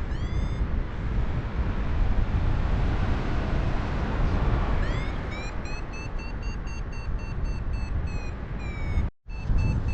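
Wind rushing over the microphone in flight under a paraglider. From about five seconds in, a variometer beeps quickly, about three to four short high beeps a second, its pitch rising and then holding, which signals the glider climbing. The sound cuts out briefly near the end.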